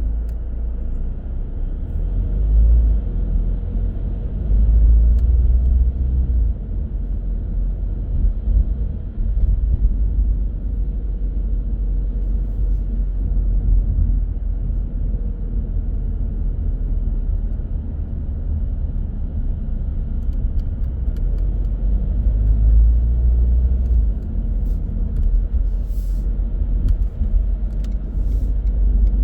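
Car driving, a steady low road and engine rumble, with a few short clicks near the end.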